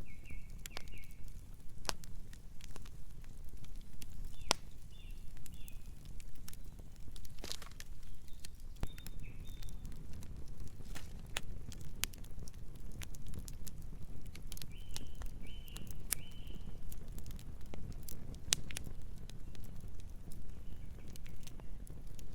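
Campfire burning: a low steady rumble with frequent sharp crackles and pops of the burning wood. Short high chirps in small groups come now and then.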